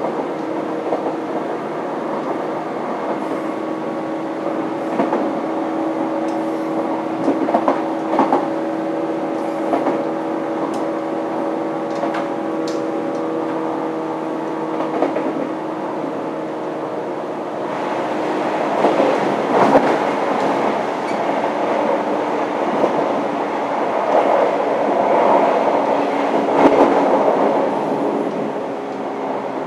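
Running sound of a 583-series sleeper train's motor car (MoHaNe 583), heard from the vestibule deck at speed: steady whining tones over the rumble of wheels on rail, with scattered clicks and knocks. About two-thirds of the way through the whine fades under a louder, rougher rumble.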